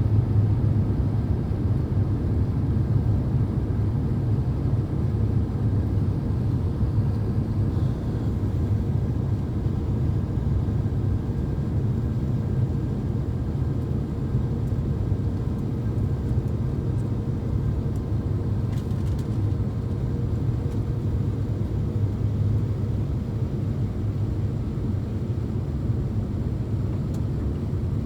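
Steady low cabin rumble of an Airbus A350-900 airliner in flight, its engines and airflow heard from inside the cabin, easing slightly in level.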